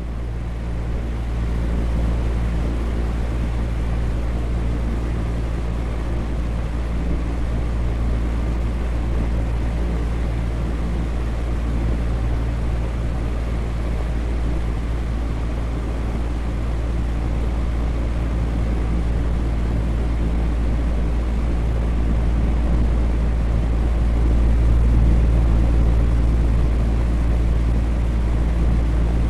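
Electric fan running steadily: an even, deep rush of air with a low steady hum underneath.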